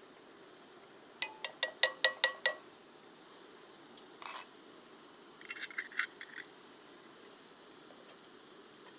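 Metal camp cookware clinking while coffee is made: a quick run of about eight sharp, ringing clinks, then a brief scrape and another cluster of lighter clinks a few seconds later.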